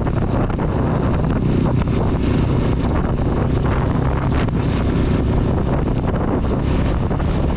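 CB250 motorcycle engine running steadily under way, with wind rushing over the microphone and heavy rain.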